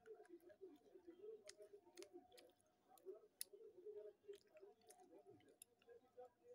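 Faint, irregular crunches and clicks of slate pencil soaked in red clay-pot paste being chewed.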